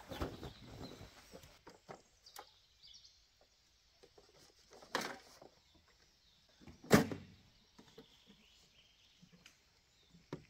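Knocks and thumps of camping gear being handled and packed away in a hurry, the loudest about seven seconds in, with small clicks and taps between.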